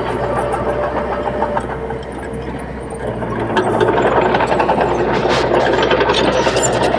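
Heavy diesel engine of earthmoving machinery running steadily, growing louder about three and a half seconds in with rattling.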